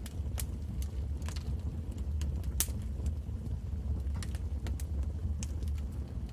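Wood fire crackling in a fireplace: irregular sharp pops over a steady low rumble of the burning fire, the loudest pop about two and a half seconds in.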